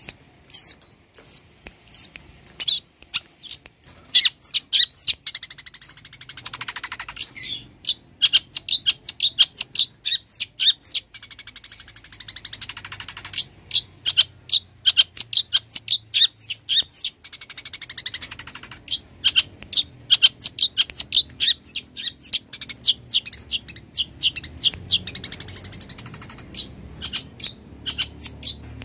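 Long-tailed shrike singing a fast chattering song of short, sharp notes, several a second, broken at intervals by harsher rasping passages.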